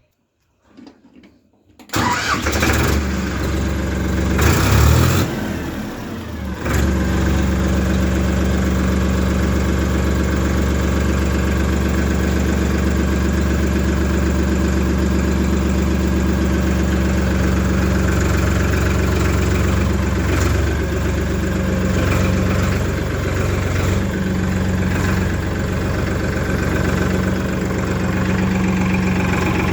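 Diesel engine starting about two seconds in, wavering briefly, then running steadily at idle.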